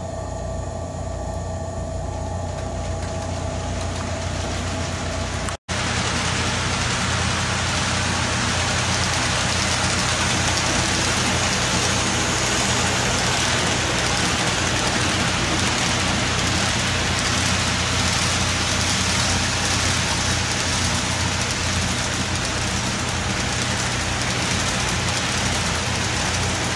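HO-scale model train of 40 covered hopper cars behind Kansas City Southern diesel locomotives, running around the layout: a steady motor hum and the even rushing hiss of many wheels rolling on the rails. The sound drops out for a moment about five and a half seconds in, then goes on with a broader hiss.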